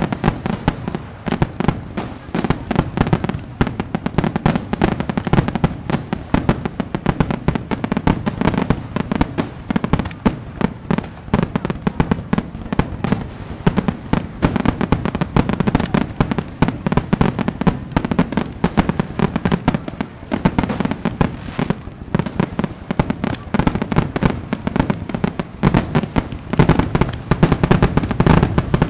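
Fireworks display: a dense, unbroken barrage of crackles and bangs, many a second, overlapping without a pause.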